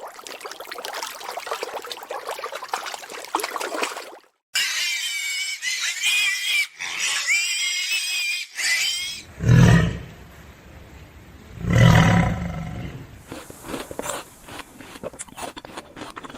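Animal calls: a stretch of high, warbling pitched calls, then two loud, deep roaring calls about two seconds apart.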